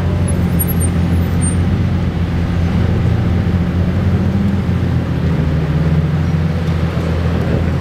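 Car engines idling and creeping along, a steady low drone with a slight rise in pitch around the middle.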